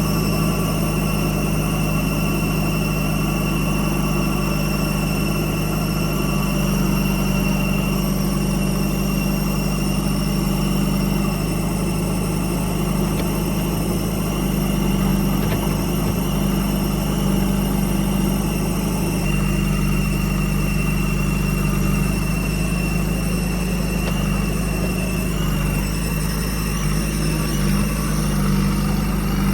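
Heavy diesel engine running steadily at idle, with a slight change in tone about two-thirds of the way through.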